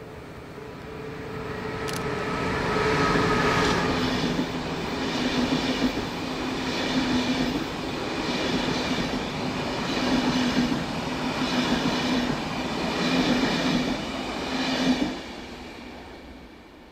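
Train on the Semmering railway running by, its wheel noise building over the first few seconds. It then swells and eases in a regular rhythm about every second and a half, with a steady whine in it. The sound drops away fairly suddenly about fifteen seconds in.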